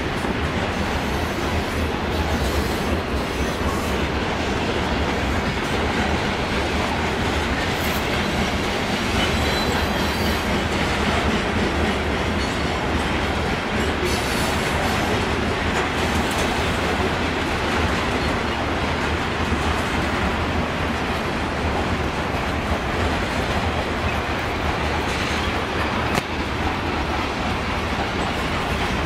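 CSX freight train's covered hopper cars rolling past close by: a steady rumble and clatter of steel wheels on the rails that does not let up.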